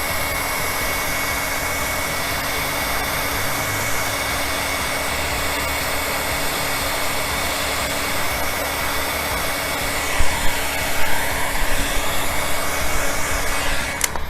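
Heat gun blowing hot air steadily, with a constant fan whine, warming the dented car panel before glue-pull dent repair; it cuts off abruptly near the end.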